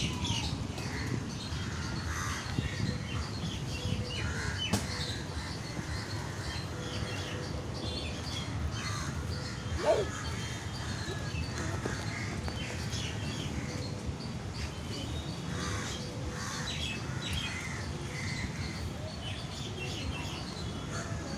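Many birds chirping and calling at once, with crows cawing among them and one louder call about ten seconds in, over a steady low background noise.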